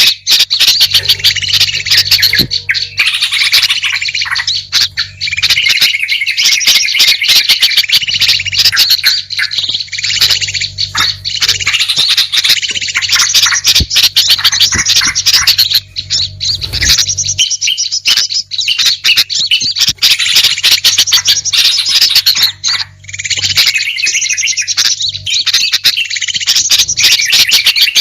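Bird-luring (pikat) recording: a dense, nonstop mix of small songbird chirps, trills and squawky calls, with a steady low hum underneath that weakens about two-thirds of the way through.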